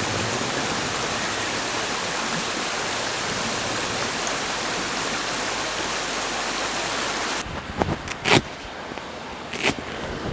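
Steady rushing of water, a dense even hiss, which cuts off abruptly about seven seconds in. A few sharp knocks follow over a much quieter background.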